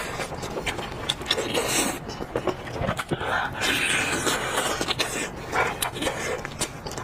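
Close-up eating sounds from a sheep's head: wet chewing, smacking and slurping of the meat, with heavy breathing and many small clicks between bites.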